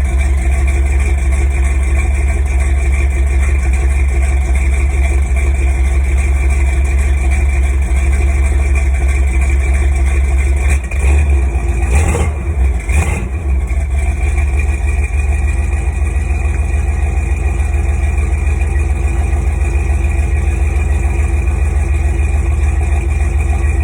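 Ford 351 Windsor V8 in a 1983 F-150 idling steadily as it warms up after a cold start. About halfway through the note briefly turns uneven, with two short bursts of noise, then settles back to a steady idle.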